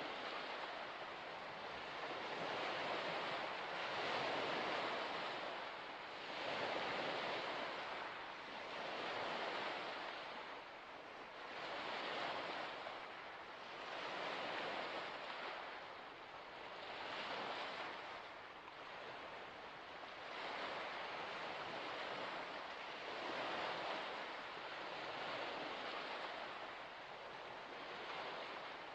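Small waves washing onto a shore, a steady rush of water that swells and falls back about every two to three seconds.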